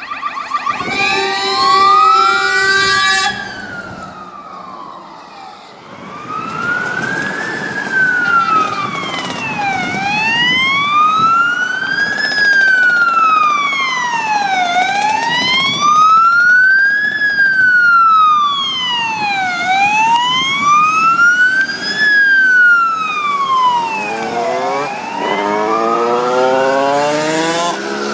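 Iveco Eurocargo fire engine's siren wailing in slow rising and falling sweeps, about one every five seconds, as it responds to an emergency call. The first rise breaks off about three seconds in, and the wail picks up again a few seconds later; near the end a different, faster rising sound joins in.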